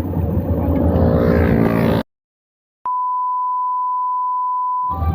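Wind and road noise on the microphone during a ride, cut off abruptly about two seconds in. After a moment of dead silence comes a steady single-pitched electronic beep, a pure tone about two seconds long, of the kind dropped in during editing.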